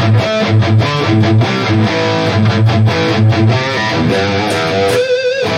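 Distorted electric guitar played through an amp modeler's Friedman amp simulation: rhythmic chugging riff on the low strings, ending about five seconds in with a single held note with vibrato.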